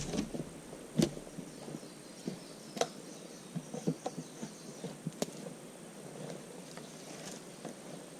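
Thin wooden poles and sticks knocking and clicking as they are handled and laid on a shelter roof: a few sharp knocks a couple of seconds apart with lighter ticks between, over a faint high buzz.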